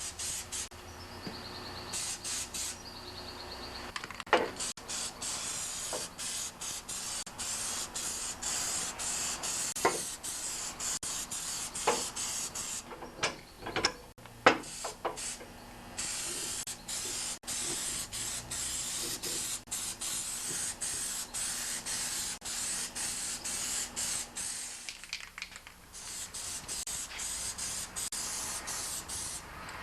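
Paint being sprayed in repeated passes: a steady hiss that keeps breaking off and starting again, with a few sharp clicks in between.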